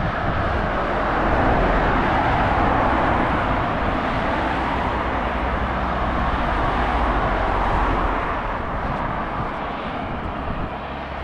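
A road vehicle passing, its rushing tyre and engine noise swelling over the first couple of seconds and then slowly fading.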